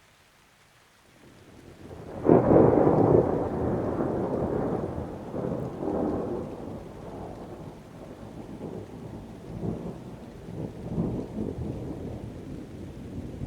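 Thunder over rain: a rumble builds and breaks into a loud clap about two seconds in, then rolls on and fades slowly, swelling again several times.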